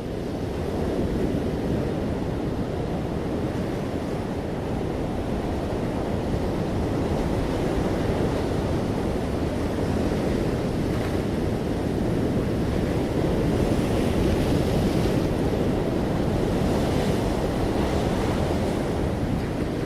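Ocean waves breaking and washing on a shore in a steady, deep rumble, with a few brighter hissing surges in the second half.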